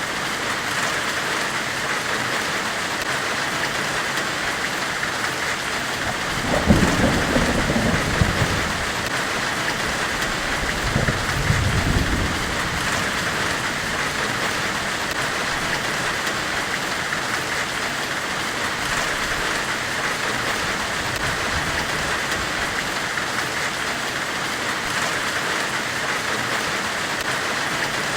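Steady hissing white noise, a forge-weld ambience of a blacksmith's fire. Two low rumbling swells break in, about six and a half seconds in and again about eleven seconds in, each lasting a second or two.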